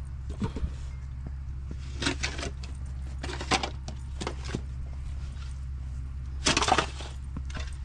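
Snow shovel scraping and pushing fluffy snow off a stoop in a handful of separate strokes, the longest near the end. A steady low hum runs underneath.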